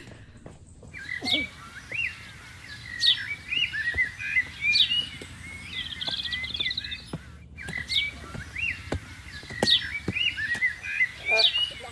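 Forest birds calling: many short chirps and whistled notes, some sweeping sharply down in pitch, with an occasional trill. A few faint knocks sound underneath.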